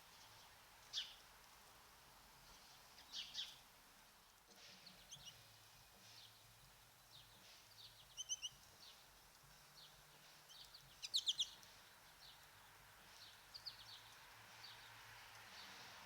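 Small birds calling: scattered short, high chirps and brief runs of notes over a faint steady hiss, the loudest a quick burst of several notes about eleven seconds in.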